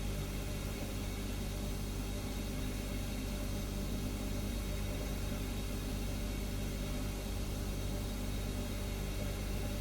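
Refrigerator humming steadily: a constant low hum with an even hiss over it.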